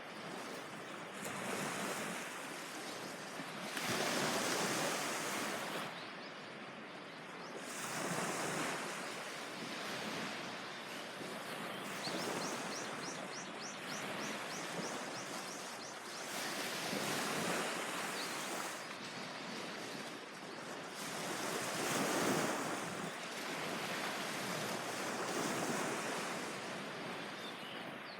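Sea waves breaking on a beach. The surf noise swells and eases every few seconds as each wave comes in and washes back.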